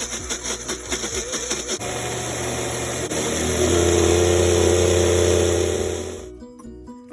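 A small electric motor in a kitchen appliance runs steadily for about four seconds, getting louder partway through, then cuts off. Music plays before it starts and again after it stops.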